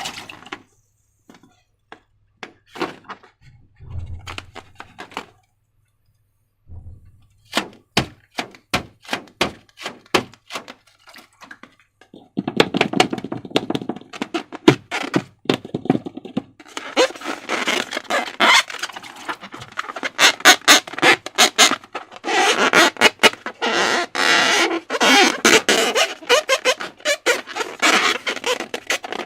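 Slime being handled: wet, sticky clicks and pops, sparse at first, then a dense run of crackling squishes from a little before halfway through.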